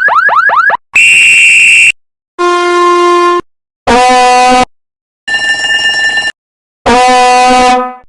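A string of six short electronic sounds, each about a second long with silence between: first a quick run of rising chirps, then five steady horn-like and buzzer-like tones at different pitches.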